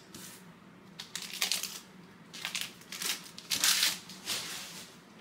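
A trading-card pack's wrapper crinkling and the cards being handled, in five or six short rustles.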